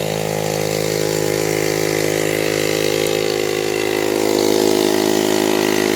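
Small engine-driven generator running steadily at idle with no electrical load, a little louder from about four seconds in.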